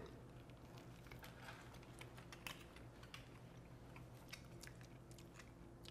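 Faint chewing of bread topped with melted goat cheese, heard as soft scattered clicks and crunches, over a low steady hum.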